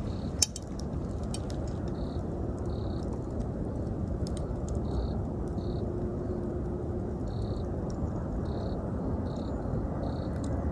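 Wood campfire crackling, with scattered sharp pops over a steady low rush. The loudest pop comes about half a second in. Autumn insects chirp in short, evenly spaced pulses, roughly one to two a second.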